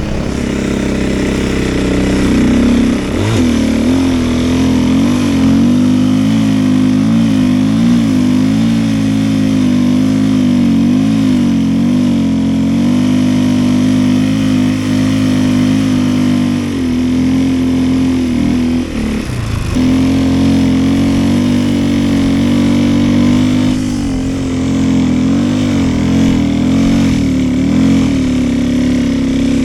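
Snowbike's 450cc single-cylinder four-stroke engine running under load while riding, its pitch rising and falling with the throttle. The engine note briefly drops and sweeps twice, about three seconds in and again just past the middle.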